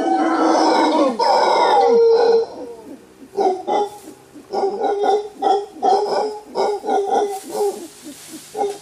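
A primate calling: loud pitched calls for about two seconds, then a run of short, rhythmic pulsed calls at about three a second that cuts off suddenly at the end.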